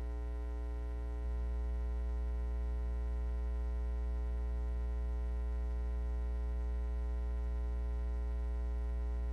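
Steady electrical mains hum with a long row of overtones. It gets a little louder about a second in.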